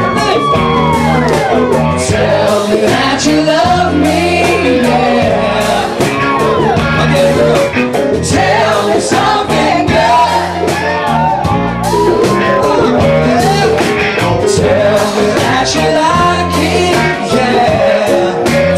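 Live band music with a lead vocal: a sung line rising and falling over steady bass notes and a regular drumbeat.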